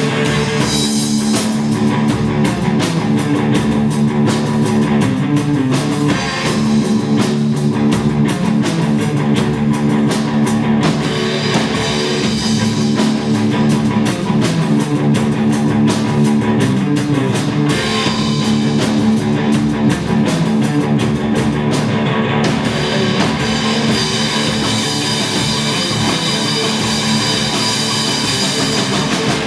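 Rock band playing live: guitar over a drum kit with a steady beat.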